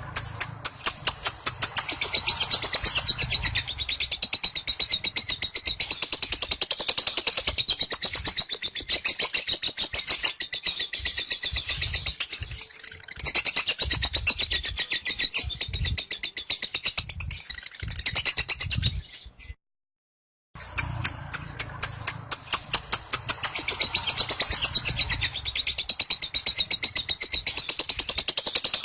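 Lovebird singing its long 'ngekek' chatter: a continuous, rapid run of high, shrill chattering notes. It stops dead for about a second about two-thirds of the way through, then carries on.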